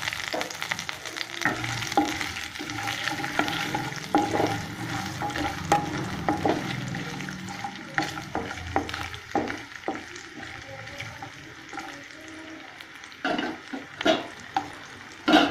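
Chopped coconut pieces sizzling in hot coconut oil in a metal pan, with a spatula stirring them and knocking against the pan again and again. A few louder knocks come close together near the end.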